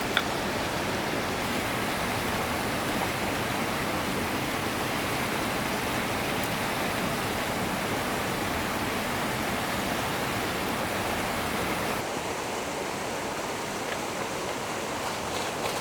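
Steady rushing noise, like flowing water or a burner, with one sharp click right at the start; about twelve seconds in it drops slightly and turns a little duller.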